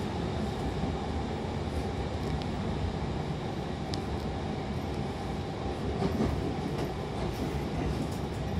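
Hankyu Railway electric commuter train running, heard from inside the carriage: a steady low rumble of wheels and running gear, with a couple of faint clicks.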